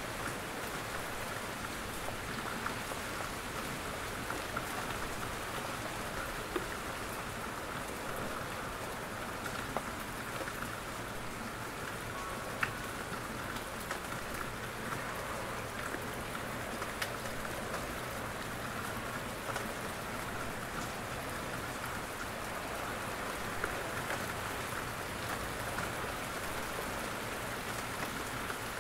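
Steady rain falling in a forest, with scattered louder drops falling from the trees.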